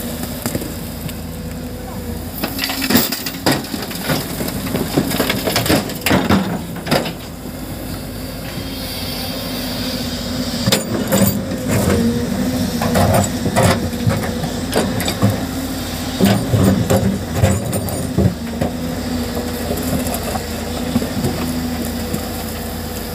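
Excavator's diesel engine running steadily, with irregular crunching and clattering of rock and dirt in several clusters as the bucket digs and dumps.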